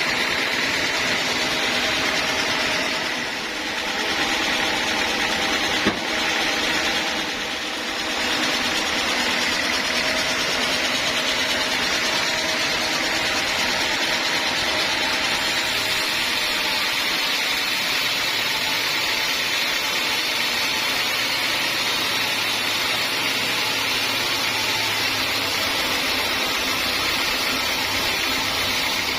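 Homemade band sawmill running steadily as its blade saws through a teak log. The noise dips briefly twice, and there is a single sharp click about six seconds in.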